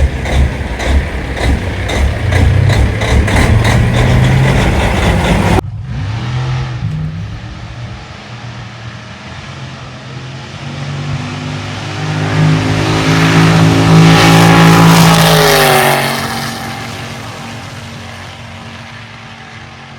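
Big-rig trucks driving past in a convoy with their diesel engines running. One passes close about twelve to sixteen seconds in: it grows loud, then its pitch drops and it fades away.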